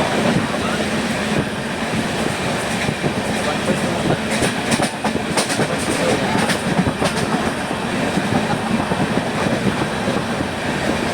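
Passenger train running, heard from on board: a steady rumble and rattle of the carriage, with a few sharp wheel clicks over the rails in the middle.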